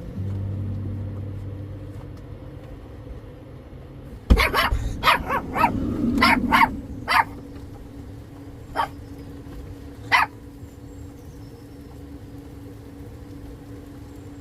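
Small dogs barking: a quick run of sharp barks with a low growl among them, then two single barks a few seconds later.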